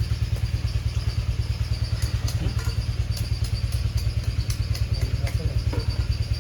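A small engine running steadily with a fast, even low pulsing, along with a few faint clicks.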